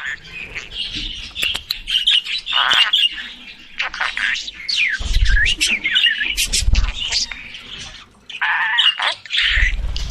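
Budgerigar chirping and warbling: a fast chatter of short chirps, squawks and quick gliding whistles. Dull low bumps come through about halfway, again shortly after, and near the end.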